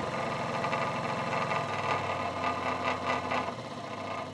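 Workzone scroll saw running and cutting a piece of scrap wood while its speed is turned down from fastest toward slowest; the machine noise drops about three and a half seconds in.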